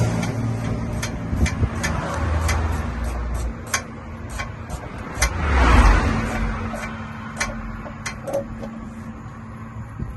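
A vehicle engine running with a steady low hum, swelling loudly about six seconds in, with scattered sharp clicks throughout; the engine sound drops away at the end.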